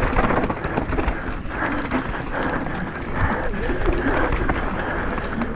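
Mountain bike ridden hard over rough ground in a downhill race: a steady rough rush of wind and tyre noise with a heavy low rumble.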